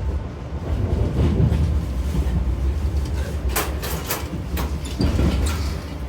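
A moving passenger train heard from inside the carriage: a steady low rumble, with a quick cluster of sharp clicks and knocks a little past halfway.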